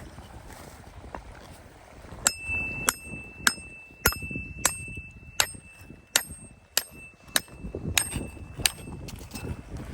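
A hard object, likely metal, struck about eleven times in an even rhythm, a little under two strikes a second. A single high bell-like ring carries through the strikes and dies away near the end.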